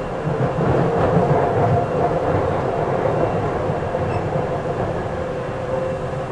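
Tokyu 8500 series electric train, a car with Hitachi traction motors, running at steady speed, heard from inside the car: a steady motor hum over the rumble of wheels on track.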